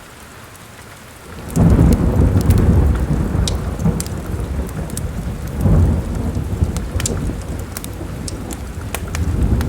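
Thunder rumbling over steady rain: the low rumble breaks in suddenly about a second and a half in, swells again midway and near the end. Scattered sharp ticks run throughout.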